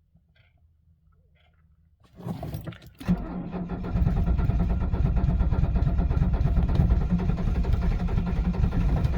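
1978 Mercedes-Benz 300SD's five-cylinder turbodiesel cold-starting on glow plugs alone at 22 °F: about two seconds in the starter cranks for a second, then the engine catches and runs steadily from about four seconds in.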